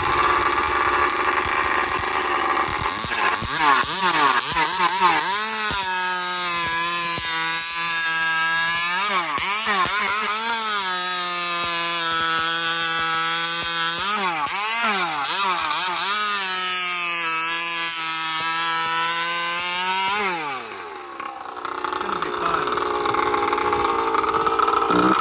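Husqvarna 543 XP two-stroke chainsaw engine with an expansion pipe, revved repeatedly off idle. It is held at high speed for a few seconds at a time and drops back between revs, and about 20 seconds in it falls away towards idle. It needs carburettor adjustment: the owner is unsure whether the low-speed (bottom end) mixture is rich or lean.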